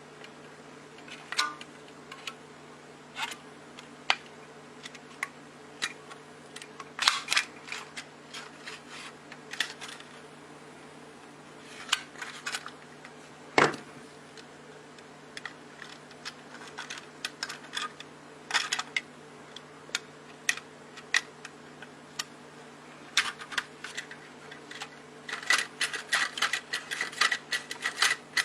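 Irregular light clicks and taps of small hard objects, scattered and unevenly spaced, thickening near the end, over a steady low hum.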